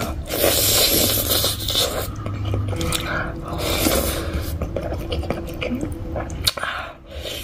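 Close-up eating sounds: a person chewing a big mouthful of rice and meat with wet mouth sounds, and fingers working the rice on the plate, in irregular crackly bursts.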